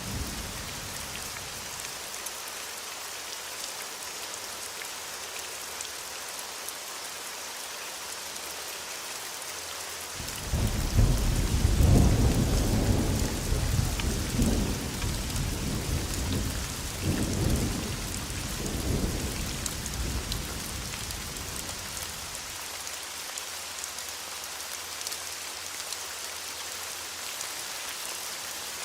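Steady rain falling, with a rolling peal of thunder that breaks in suddenly about ten seconds in, rumbles in several surges for around ten seconds and fades away.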